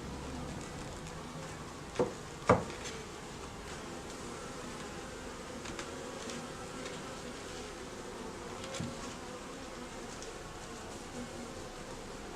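Buckfast honey bees buzzing steadily from the open hive being inspected. Two sharp knocks about two seconds in, and a fainter one later.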